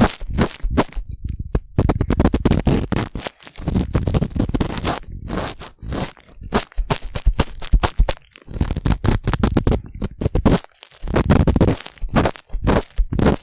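Cotton swab rubbing and scraping close against a binaural microphone's ear, a run of loud, crackly strokes broken by short pauses.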